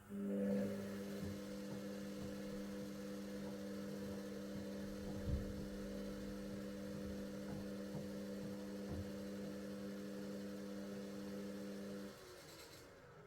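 Bauknecht front-loading washing machine running its steam self-clean cycle: a steady electrical hum from a motor or pump inside the machine, with a few soft knocks, cutting off about twelve seconds in.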